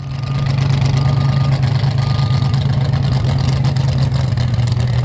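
V8 tractor-pull tractor's engine running at a steady speed, its low pitch holding level without revving up or down.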